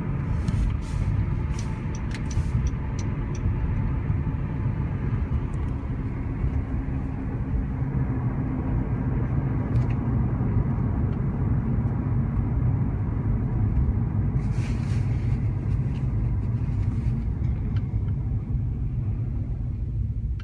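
2013 Honda Civic on the move: steady road and drivetrain rumble with a faint thin whine running through it, and a few light clicks early on. This is the car being recorded for a strange noise when decelerating that began after its front passenger wheel hit a curb.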